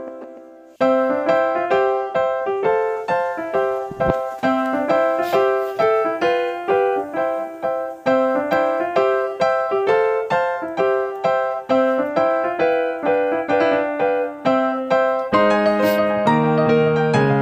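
Background music: a piano or electric piano playing a light melody of quick, evenly spaced notes, with a fuller, lower accompaniment joining near the end.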